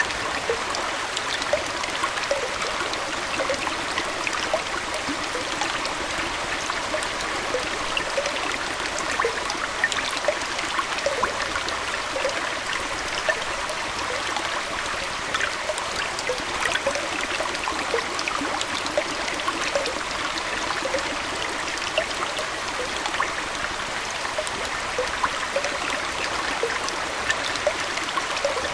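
Aquarium water trickling and splashing steadily, with many small plinks and bubbling pops scattered through it.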